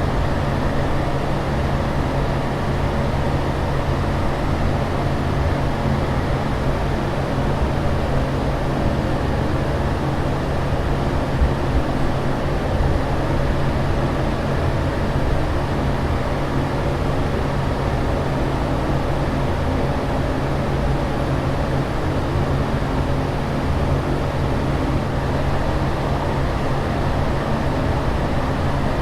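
Steady airliner cabin drone in flight: an even, unbroken rush of air and engine noise with a constant low hum beneath it.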